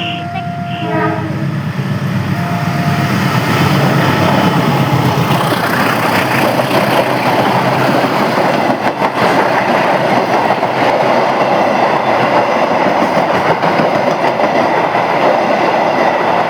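Passenger train passing close by. The diesel locomotive's low engine drone builds over the first few seconds, then gives way to a steady, loud rush of the coaches running over the rails, with some clatter about nine seconds in.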